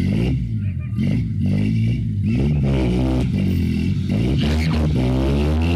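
Two pickup-truck engines, a Chevy's and a Toyota's, revving hard under load as the trucks pull against each other. Their pitches waver up and down, then climb steadily near the end.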